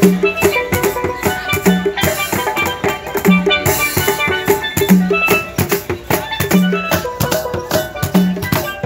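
Hand drums and a steelpan playing a lively rhythmic groove, with dense drum strokes and a low note repeating about every second and a half.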